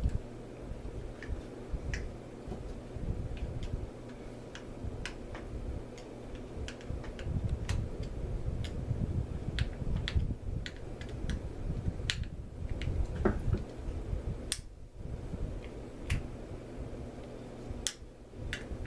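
Irregular small clicks and ticks of metal fishing-reel parts being handled and adjusted by hand, over a steady low hum.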